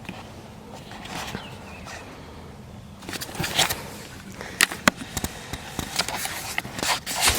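Faint outdoor background, then from about three seconds in a run of irregular sharp clicks, crackles and rustles.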